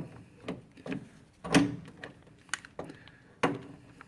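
A series of irregular sharp clicks and knocks, about six, the loudest about one and a half seconds in. It is a magnetic drive guide on an angled drill adapter being fitted and knocked against the screw head and metal bracket.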